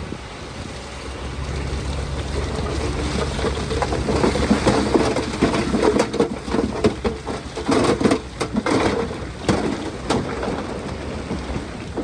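A load of dirt and rock tumbling and sliding down, with many stones clattering over a low rumble. The clattering builds through the middle and thins out near the end.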